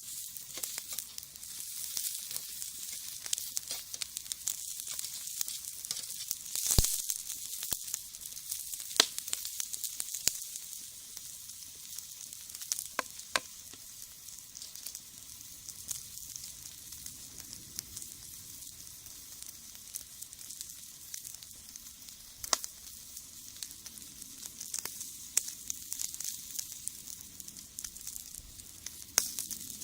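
Shishamo sizzling on a wire grill net over a wood fire in a brick rocket stove: a steady hiss with frequent crackles and a few sharp pops, the loudest about seven seconds in.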